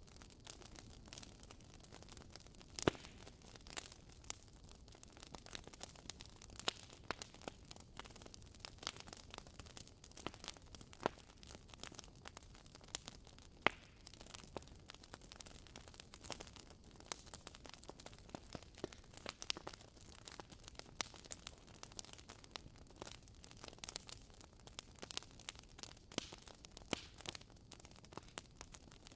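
Wood fire burning in a fireplace, logs crackling with frequent small irregular pops and a few sharper snaps over a soft steady hiss.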